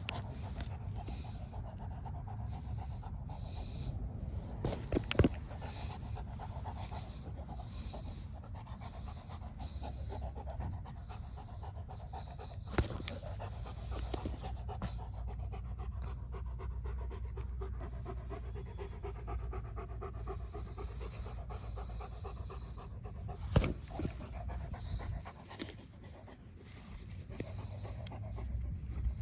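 A dog panting rapidly and steadily, with three sharp knocks partway through.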